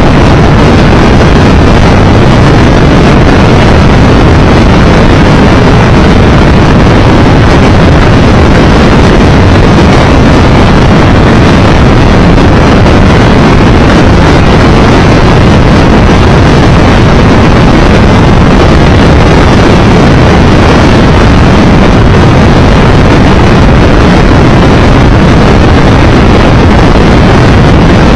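Loud, steady wind rush over the microphone, mixed with the engine and road noise of a Triumph Tiger Explorer 1200 motorcycle cruising at a constant speed.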